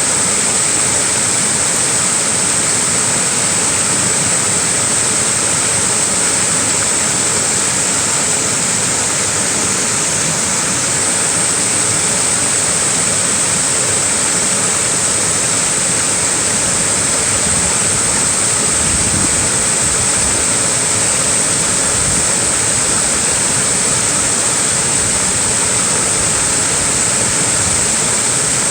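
Small waterfall splashing steadily, a continuous, even rush of falling water with a bright hiss on top.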